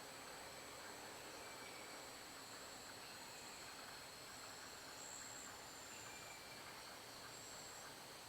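Faint, steady insect chorus with a continuous high-pitched shrill drone, and a couple of soft short whistles near the beginning and end.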